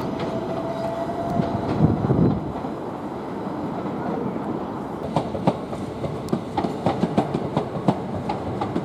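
Electric multiple-unit train running on the approach tracks, with a faint whine rising slightly at the start. From about five seconds in, the wheels clack sharply and unevenly over rail joints and pointwork.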